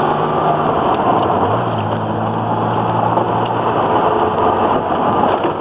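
Twin-turbo Datsun Z-car driving, heard from inside the cabin: a steady engine drone over road noise, its pitch stepping up slightly about a second and a half in.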